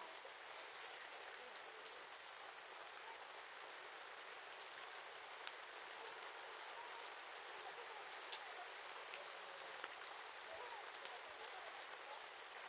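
Wood fire crackling: a steady hiss with many small sharp pops and snaps scattered throughout, and faint thin whistles in among them.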